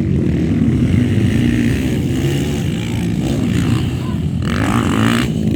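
Motocross motorcycle engines running, with a short rush of noise about four and a half seconds in.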